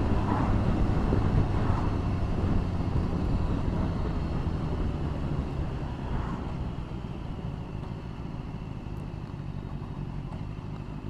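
Motorcycle engine running under way with wind and road noise, heard from the rider's helmet microphone, the level easing off gradually as the bike slows for a roundabout.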